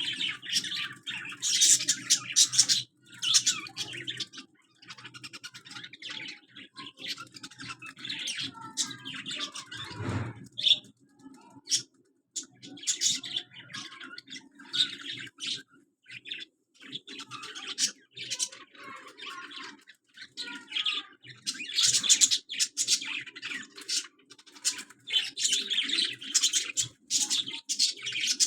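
Pet parrot chirping and chattering in bouts of rapid, high chirps, with short pauses between bouts.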